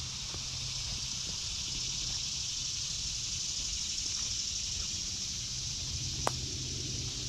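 Steady high-pitched chorus of insects droning in summer woods. A single sharp click or snap about six seconds in.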